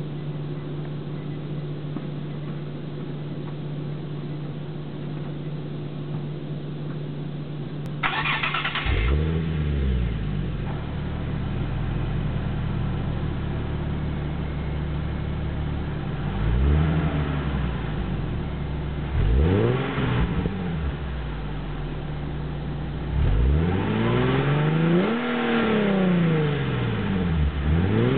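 Nissan 370Z's 3.7-litre V6 with a Nismo aftermarket exhaust, cold-started: after a steady low hum, the starter cranks briefly about eight seconds in and the engine catches. It then idles, and it is blipped in several quick revs, with a longer double rev near the end.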